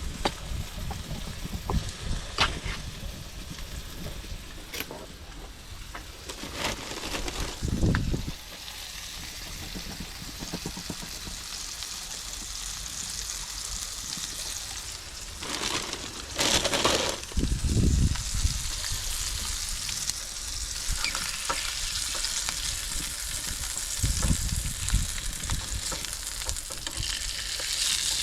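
Food frying and sizzling in a pan, a steady hiss that grows denser in the second half, with occasional clicks and knocks of a utensil and a few dull thumps.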